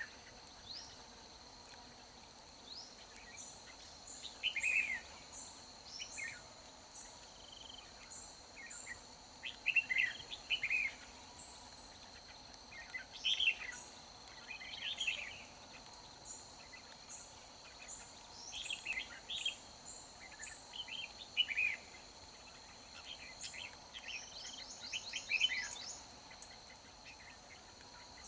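Red-whiskered bulbuls singing short, bright phrases in clusters every few seconds, with a steady high insect drone behind them.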